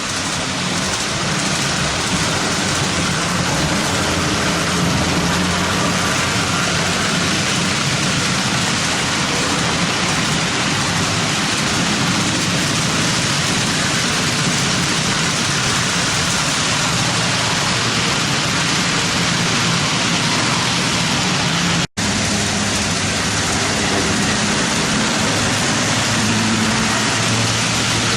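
HO-scale model freight train running along the track: a steady rushing rattle of wheels on rail over a low motor hum. The sound cuts out for an instant about three quarters of the way through.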